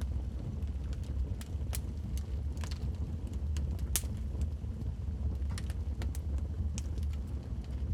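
Wood logs burning in a fireplace, crackling and popping at irregular moments over a steady low rumble; the loudest pop comes about four seconds in.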